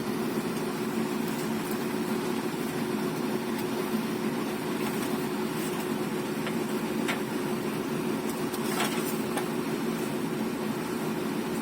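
A heavy diesel engine running steadily at an even speed, with a constant low hum and a few faint clicks.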